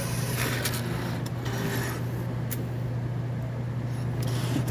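Ticket vending machine's banknote acceptor drawing in inserted cash, heard as a few short rasping, rubbing bursts over a steady low hum.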